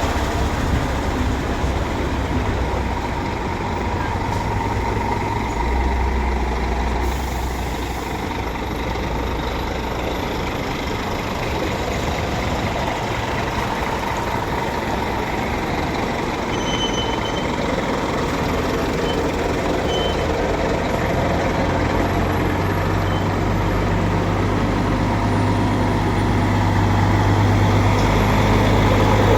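Heavy trucks' engines running as they drive in, a steady low rumble that grows louder near the end.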